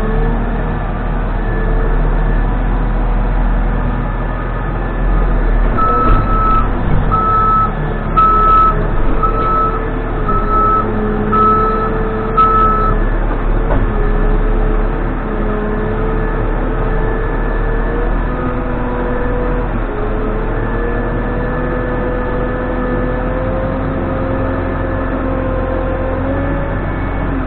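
Case 580N backhoe loader's four-cylinder diesel engine running under hydraulic load, its pitch creeping up in the second half. About a quarter of the way in, its reverse alarm beeps about seven times, once a second, as the machine backs up.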